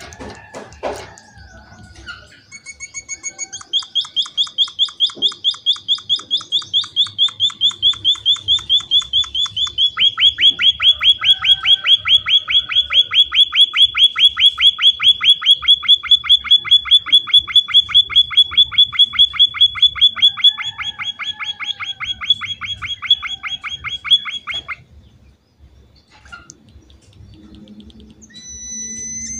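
Emprit (munia) singing: a long run of rapid, evenly repeated chirping notes that starts a couple of seconds in, grows louder about ten seconds in, and stops about twenty-five seconds in. A few short single calls follow near the end.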